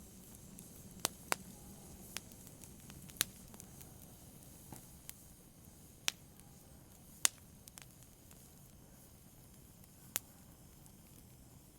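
Fireplace fire crackling: sharp, irregular pops every second or two over a soft, steady low hiss.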